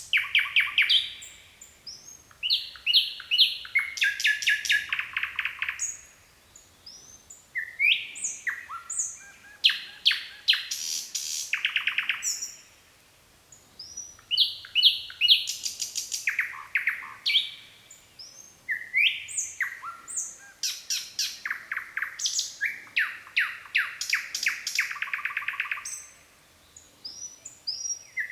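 Nightingale singing: phrases of rapid repeated notes and trills, separated by short pauses of a second or so.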